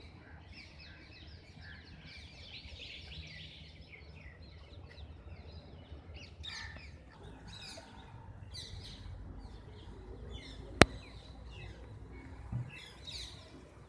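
Small birds chirping and twittering repeatedly over a low steady rumble, with one sharp click about eleven seconds in.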